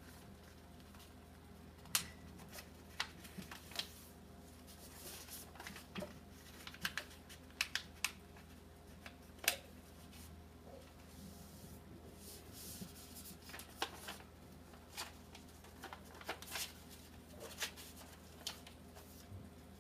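A sheet of paper being handled and folded into a paper airplane: scattered soft rustles and crinkles with sharper creasing swipes, over a faint steady low hum.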